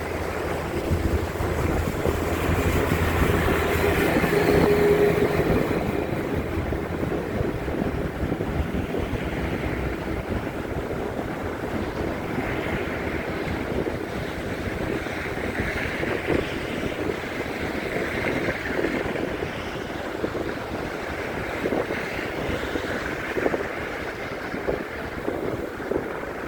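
Traffic rumble with wind on the microphone; a low, steady engine hum passes in the first few seconds and fades by about six seconds in.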